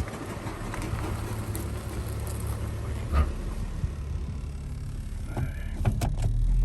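2001 Lexus GS300's 3.0-litre inline-six running with a steady low rumble. There is one short thump about three seconds in and a few sharp clicks near the end.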